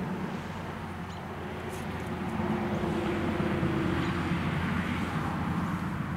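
Steady low mechanical drone, like a distant motor, that swells about two seconds in and eases near the end.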